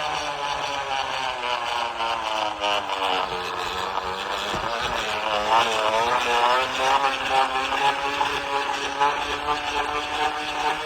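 Plastic bottle wedged into a bicycle wheel, flicked by the spokes in rapid succession to make a loud, buzzing, engine-like rattle. Its pitch follows the wheel's speed, dipping about four seconds in and then rising again.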